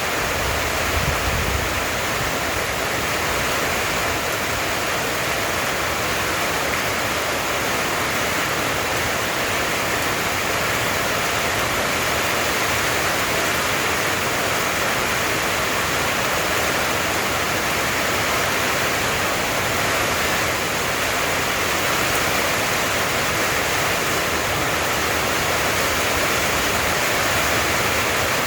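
Heavy rain falling steadily, a constant dense hiss, with a brief low thump about a second in.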